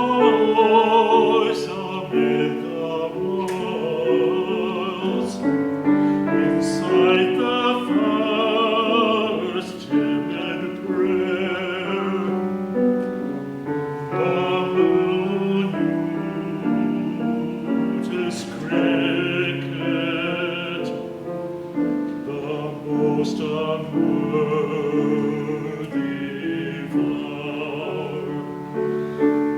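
A classical-style singer with a pronounced vibrato, accompanied by piano.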